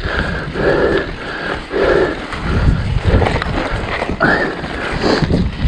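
Mountain bike riding over a rough, technical stretch of single track: tyres rolling over rock and the bike knocking and rattling on the bumps, with an uneven clatter.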